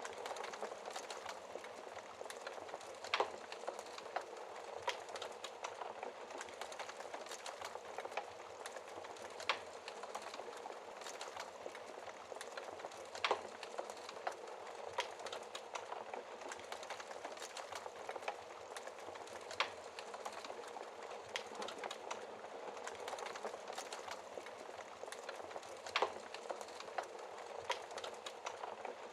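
Wood fire burning behind a glass shield: a steady hiss with sharp crackles and pops every few seconds.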